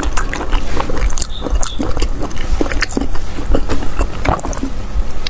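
A person chewing food close to the microphone: irregular wet clicks and smacks, several a second.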